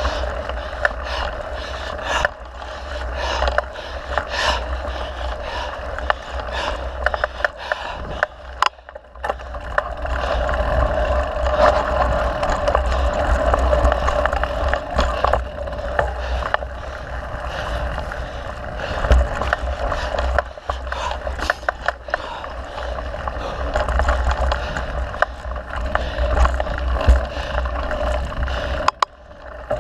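Mountain bike riding a dirt trail: wind buffeting the microphone, tyres rolling, and the bike rattling with frequent clicks and knocks over bumps. It goes briefly quieter twice, about nine seconds in and near the end.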